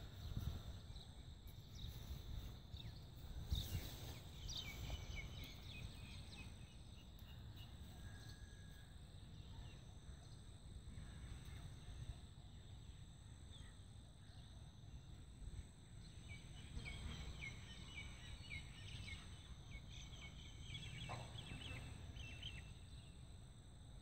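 Bird calls: runs of short, high chirps a few seconds in and again through the second half, over a faint low rumble.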